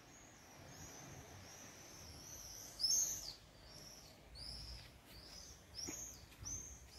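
A small bird calling, a run of short high chirps that each drop in pitch, repeated about twice a second; the loudest comes about three seconds in.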